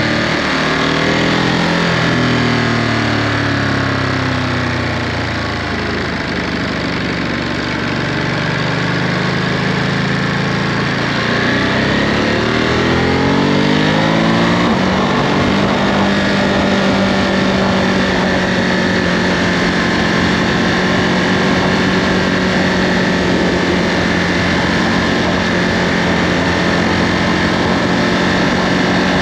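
Ducati Monster 937's 937 cc Testastretta V-twin under way on its stock Euro5 exhaust. The engine note drops at the start and climbs twice as the bike accelerates through the middle, then holds steady at a cruising speed.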